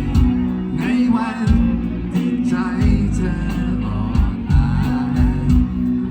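Thai rock band music, drums, bass and guitar on a steady beat, with a male voice singing long wavering notes from about a second in.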